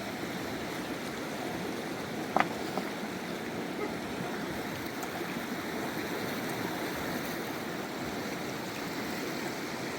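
Steady rushing of a flowing river, with one brief sharp sound about two and a half seconds in.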